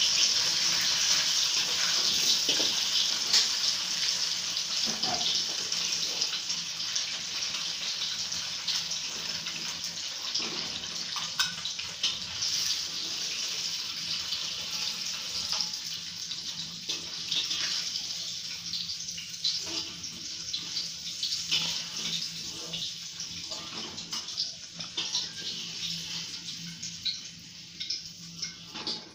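Tofu frying in shallow oil in a steel wok: a steady sizzle that slowly dies down, with scattered clicks and scrapes of a metal spatula against the wok as the pieces are turned and lifted out.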